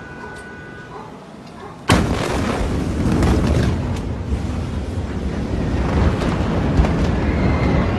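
The Beirut port explosion's blast hitting about two seconds in: a sudden, very loud bang, followed by a long, heavy rumble with scattered cracks.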